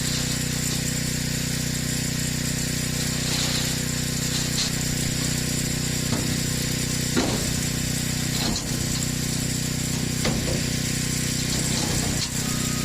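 Angle grinder running steadily while cutting steel, with a few short knocks scattered through.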